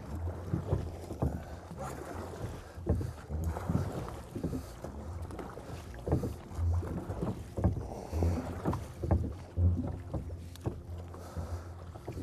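Sounds of a fishing boat on a river: irregular knocks and splashes, several a second, over a steady low rumble.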